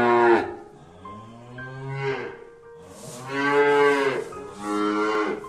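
Cattle mooing: four separate calls in turn, the third the longest and loudest.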